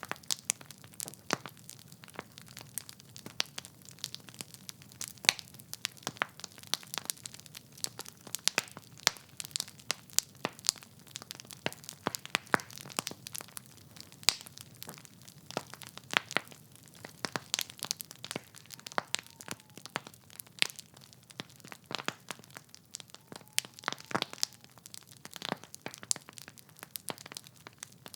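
Wood logs burning in a fireplace, crackling and popping in irregular sharp snaps over a soft low hiss of the flames.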